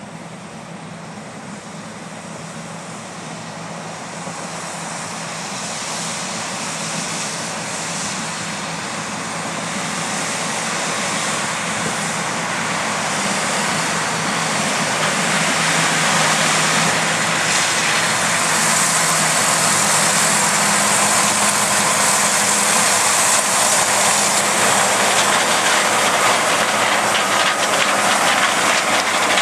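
Large harvest machinery running. The engine and machine noise grows steadily louder over about fifteen seconds, as if the machine is drawing closer, then holds steady.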